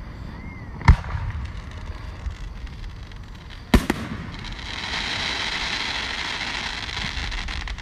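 Aerial firework shells bursting: two sharp bangs about three seconds apart, the second the loudest. After it comes a few seconds of dense crackling as the stars fall.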